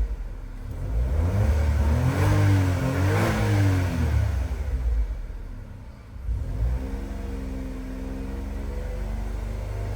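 Mitsubishi Delica Mini's 660 cc three-cylinder engine, heard through a Wills Win racing muffler, revved twice in quick succession about two to three seconds in, each rev rising and falling. The exhaust then settles to a steady idle from about seven seconds.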